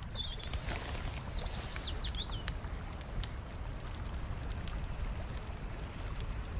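Several birds chirping over the first two seconds or so, above a steady low rumble. A faint, steady high tone comes in about four and a half seconds in.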